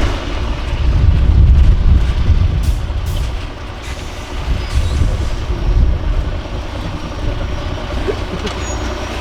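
Diesel engine of a 6x6 MAN trial truck working under load. It is loudest about one to two seconds in, then eases to a lower, steady running sound.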